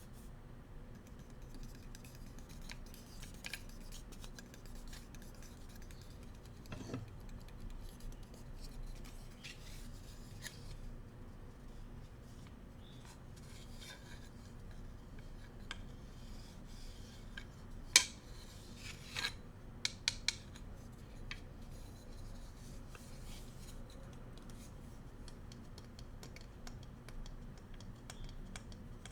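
Bamboo cooking utensils being scratched and rubbed, making soft, dry scratching sounds with scattered light clicks. There is one sharp tap a little past halfway, followed by a few quick clicks.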